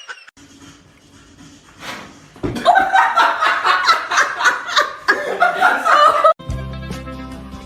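A person laughing hard in rapid bursts, starting about two and a half seconds in and lasting about four seconds. Music begins abruptly near the end.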